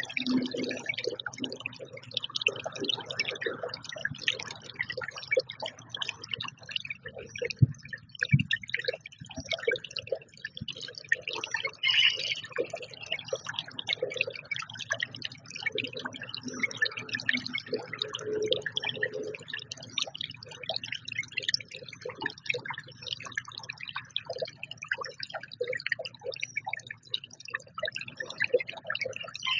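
Birds at a feeder: a dense, irregular stream of ticking and clicking, with a few short bird calls, one about twelve seconds in and another near the end.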